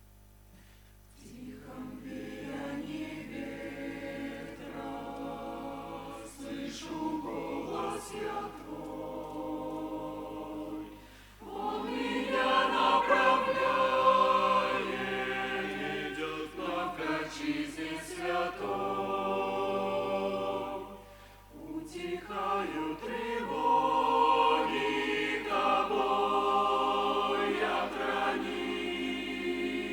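Church choir singing a hymn in Russian, unaccompanied, in phrases with short breaths between them. The singing starts about a second in and grows fuller and louder from about the middle.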